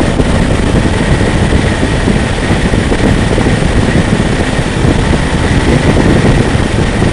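Steady road noise from a motorcycle moving at speed: rushing wind with engine and tyre noise underneath, unbroken throughout.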